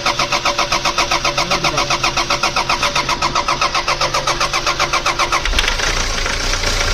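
Starter cranking a freshly rebuilt Toyota 1KD four-cylinder turbodiesel, with even pulses about seven times a second. About five and a half seconds in, the engine fires and settles into a steady run.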